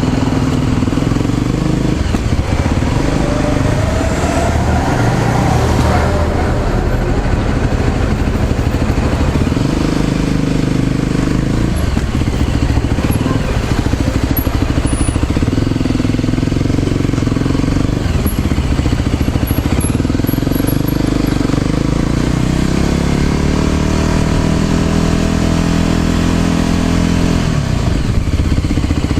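Small motorbike engine running while being ridden, its note dipping and rising with the throttle every few seconds, and a steady climb in pitch near the end as it accelerates.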